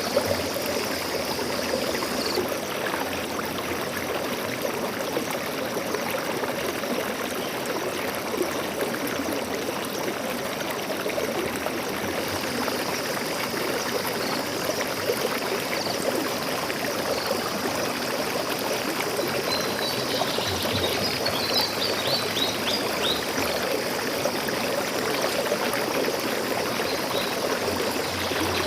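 A stream flowing steadily, a continuous rush of running water. Faint high bird chirps come in a short cluster about two-thirds of the way through and again near the end.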